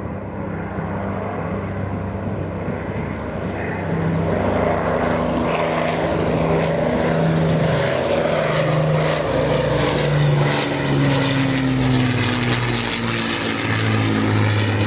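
Avro Lancaster's four Rolls-Royce Merlin piston engines running as the bomber flies past. They grow louder about four seconds in, and the engine note slowly falls in pitch toward the end.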